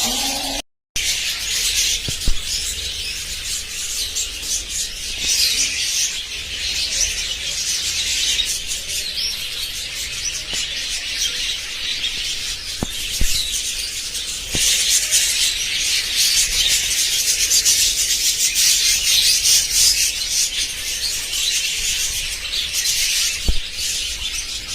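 A flock of budgerigars chattering and chirping continuously in a dense, high-pitched warble. The sound cuts out briefly just under a second in.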